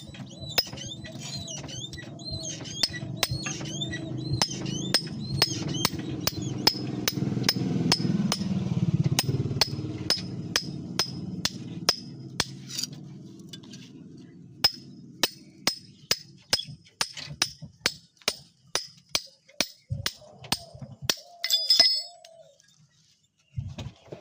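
Hammer blows on metal at about two to three a second, each with a bright metallic ring, as in forging the blade. A low rumbling noise runs underneath, swelling over the first half and fading out by about halfway.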